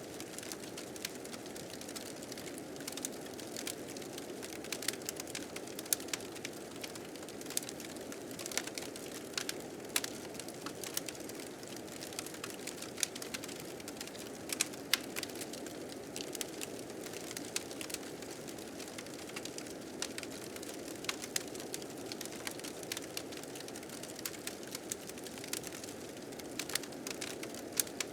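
Wood fire crackling with frequent sharp pops and snaps over a steady low whoosh of blizzard wind.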